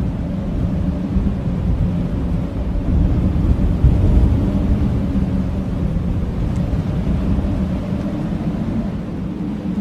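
Blizzard wind blowing hard and steadily, a deep rumble with faint howling tones, swelling a little in the middle.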